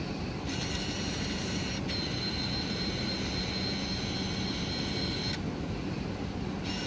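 A bus card top-up machine whirring with a high, steady whine from about half a second in, which stops about five seconds in and starts again near the end. The machine is taking in money for the card top-up, over a steady low hum.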